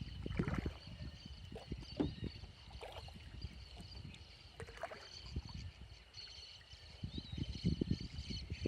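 Kayak paddle dipping and pulling through still lagoon water, with irregular splashes and water lapping at the hull, loudest near the start and again near the end. A steady high-pitched drone runs underneath.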